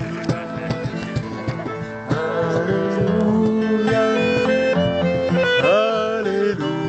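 Live acoustic folk music: guitar playing with singing.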